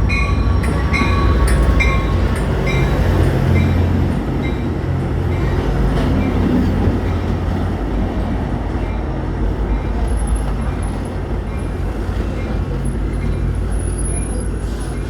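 Amtrak San Joaquins passenger train passing close by with a heavy, steady low rumble, and a repeated ringing about twice a second over it. The train is loudest in the first few seconds and eases off slightly after.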